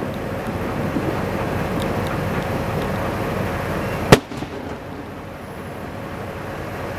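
Aerial fireworks bursting continuously in a dense run of overlapping bursts, with one sharp, loud bang about four seconds in.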